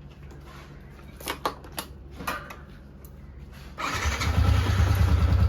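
A few sharp clicks, then about four seconds in a motorcycle engine, freshly filled with new oil, starts and settles into running with an even, rapid pulse.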